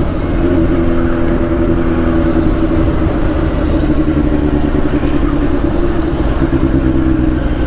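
Motorcycle running steadily on the move: an even engine hum over a low rumble.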